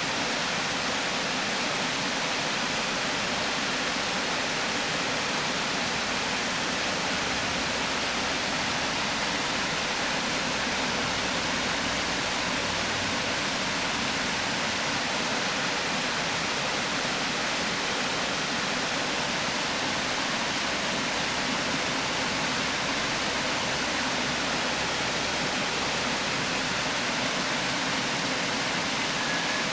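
Water pouring steadily over a river weir: an even, unbroken rushing.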